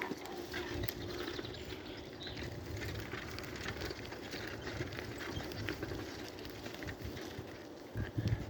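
Birds calling in woodland over a low rumble of wind on the microphone, with scattered short taps.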